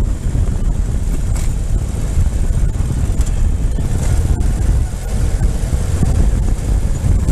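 Ural motorcycle on the move: a steady low engine and road rumble under heavy wind buffeting on the microphone.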